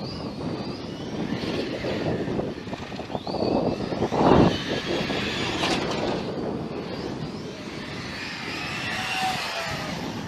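Radio-controlled model running at speed: a high whine that glides up and down in pitch, with a loud rushing pass about four seconds in.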